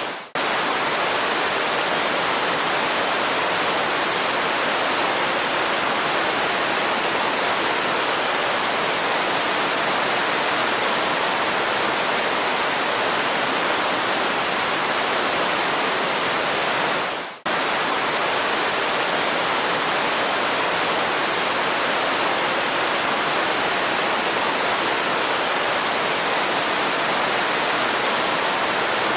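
Waterfall: the steady rush of falling water, even and unbroken. It drops out for a split second twice, just after the start and a little past halfway.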